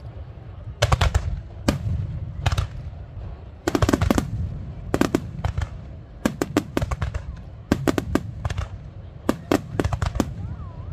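Aerial fireworks bursting: quick strings of sharp cracks and bangs, a cluster every second or so, over a low rumbling echo.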